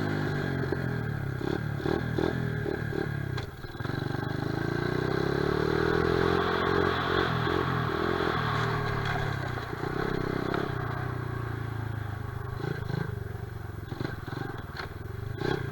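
Honda XR70R pit bike's small four-stroke single-cylinder engine running, its pitch rising and falling as the throttle is worked, with a brief drop about three and a half seconds in. Scattered clicks and knocks sound over it.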